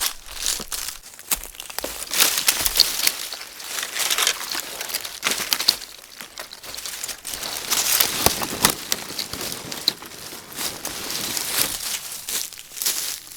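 Rustling and crinkling, uneven and busy, with many short clicks and crackles.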